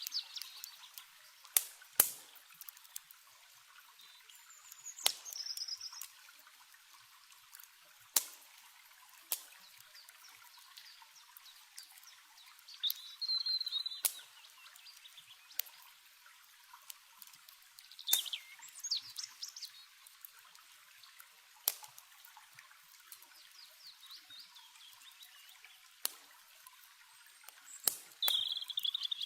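Campfire crackling with occasional sharp pops, over a steady, hissy trickle of running water. Short bird chirps come in several times.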